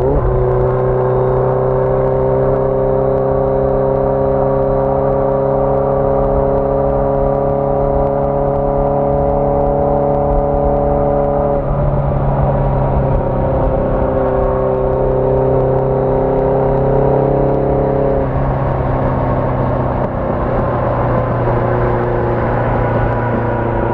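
1981 Yamaha XJ650 Maxim's air-cooled inline-four engine running under way, its note climbing slowly for the first half. The note changes abruptly about halfway through and again about three quarters of the way through.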